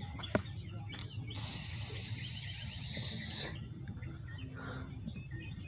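Small birds chirping in the background over a low steady rumble. A hiss rises about a second and a half in and stops sharply about two seconds later.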